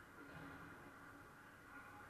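Near silence: a faint, steady background hum.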